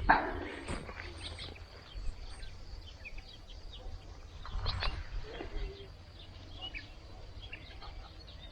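Footsteps and rustling on rough, uneven ground, with faint bird chirps in the background.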